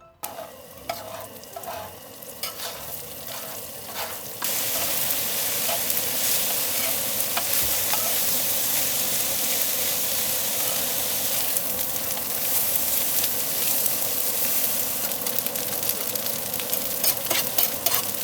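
Fried rice sizzling in a hot pan while it is stirred, with scrapes and clicks of the utensil against the pan. About four seconds in the sizzling abruptly becomes much louder and stays loud and steady.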